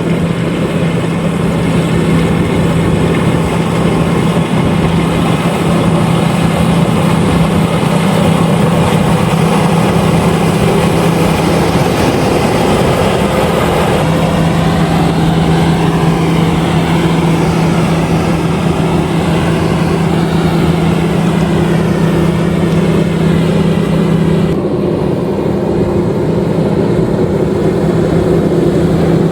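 LOVOL RG130EVO combine harvester running steadily, a loud continuous engine and machinery drone with a constant low hum; the higher part of the sound drops away a little about 25 seconds in.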